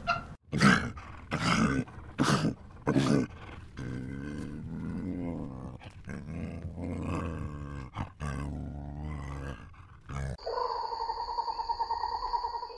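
An animal calling: four short, loud calls in the first three seconds, then a long, low, drawn-out call lasting several seconds. About ten seconds in, it gives way to a steady high-pitched tone.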